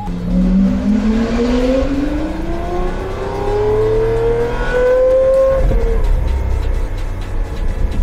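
Lamborghini Aventador V12 accelerating hard, its pitch rising steadily for about five seconds, then dropping abruptly near six seconds in, with a low steady rumble going on underneath.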